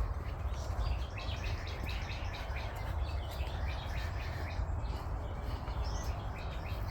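Birds chirping in the forest: a steady run of short, high chirps, with a few longer arched notes near the end, over a steady low rumble.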